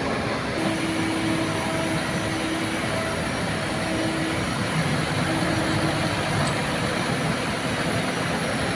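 Heavy diesel engine running steadily under load, a continuous rumble with a faint whine that comes and goes.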